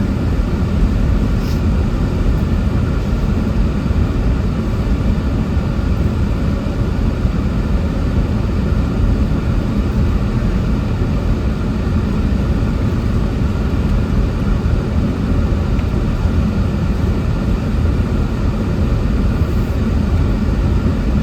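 Steady rumble of a pickup truck heard from inside the cab while it drives, with the heater fan blowing.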